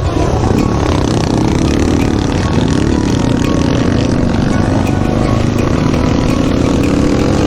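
Dirt bike engine running under way, its pitch rising and falling gently with the throttle, over a steady low rumble of wind on the microphone.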